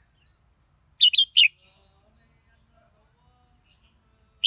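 Red-whiskered bulbul singing a short phrase of three quick, clear notes about a second in; the next phrase begins right at the end.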